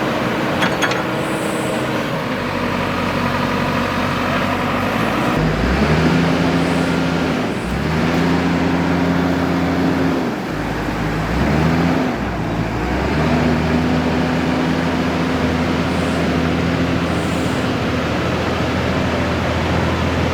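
Backhoe loader's diesel engine revving up and down: the engine speed rises and drops three times in the first part, then holds steady at higher revs.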